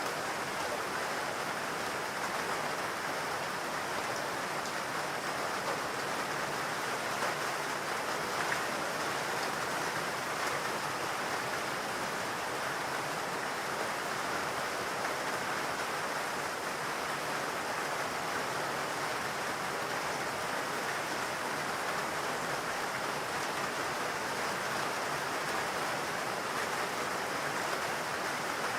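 Steady rain falling, an even hiss of water without breaks or separate drops standing out.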